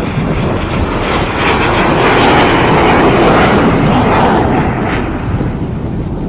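Blue Angels F/A-18 Super Hornet fighter jets flying past, a loud jet noise that swells to its peak about two to four seconds in and then fades.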